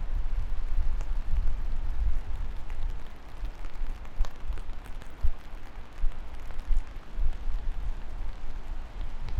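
Steady rain falling, an even hiss with scattered faint drop ticks over a deep, unsteady low rumble.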